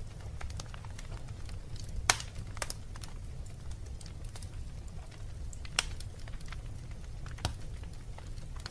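Wood fire burning in a fireplace: a low rumble with scattered sharp crackles and pops, the loudest snap about two seconds in and others near the middle and end.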